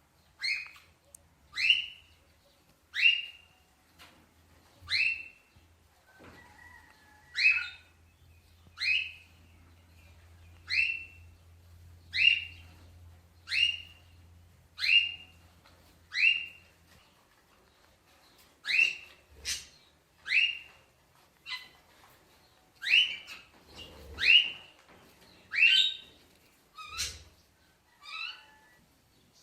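A parrot calling over and over, a short high call that drops in pitch, repeated about once every second and a half.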